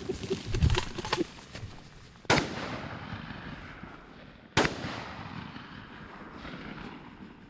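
Two shotgun shots about two seconds apart, each a sharp blast that rolls off in a long echo: hunters firing at wild turkeys.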